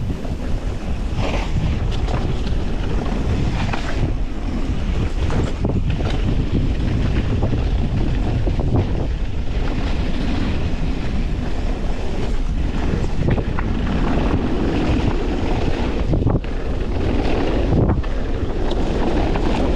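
Wind rushing over an action camera's microphone during a fast mountain-bike descent, along with tyre noise and scattered knocks and rattles from the bike on rough trail.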